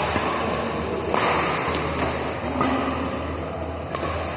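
Badminton rally: three sharp racket strikes on the shuttlecock about a second and a half apart, with shoes shuffling on the court in between.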